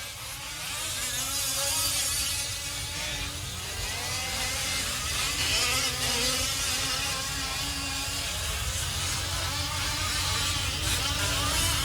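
Several 5th-scale RC off-road trucks' small two-stroke gasoline engines racing, their buzzing pitches rising and falling and overlapping as the trucks accelerate and brake around the track. The sound grows louder over the first couple of seconds.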